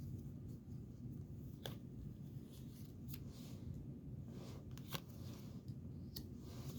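Tarot cards being handled: a few light, scattered clicks and rustles over a steady low hum.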